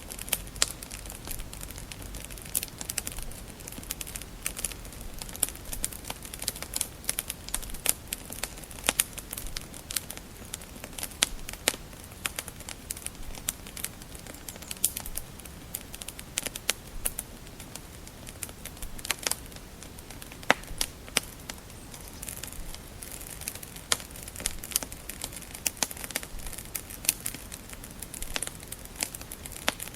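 Wood fire crackling and popping: irregular sharp snaps over a steady soft hiss of burning logs.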